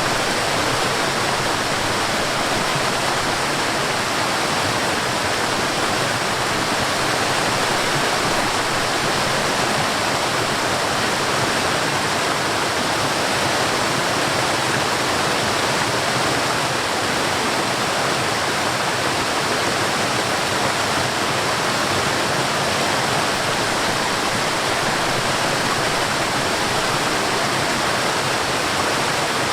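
Mountain stream and waterfall water rushing in a steady, even wash with no breaks.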